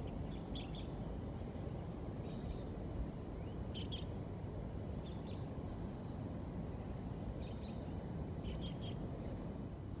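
Outdoor ambience: a steady low rumble, with faint short bird chirps every second or two.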